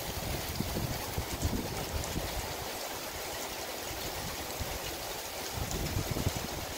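Steady rain falling on pine trees and foliage, an even hiss, with irregular low rumbles of wind on the microphone.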